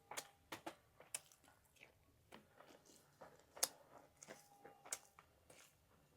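Close-miked eating sounds: chewing with irregular short clicks and smacks, one or two a second, with quiet between them.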